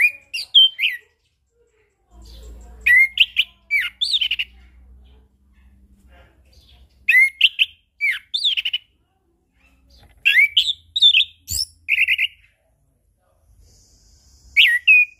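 Orange-headed thrush singing: five bursts of loud, sliding whistled phrases a few seconds apart, each lasting one to two seconds.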